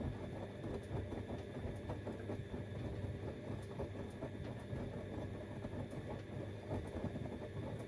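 Siemens Extraklasse XLs 140 A front-loading washing machine running mid-cycle on a cottons 60°C stains programme: the drum turns with a continuous low churning noise, small ticks and a faint steady motor whine.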